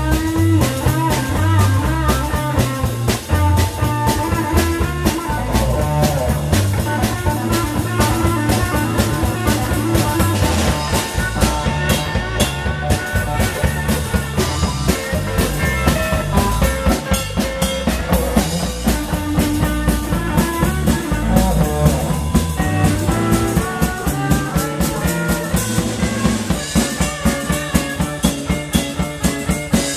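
Live blues band playing an instrumental passage: electric guitar lines over bass and a drum kit keeping a steady beat with rimshots.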